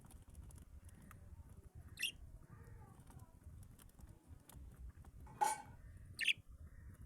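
Pet birds giving three short, sharp chirps, about two, five and a half and six seconds in, the middle one the loudest, over a faint low background rumble.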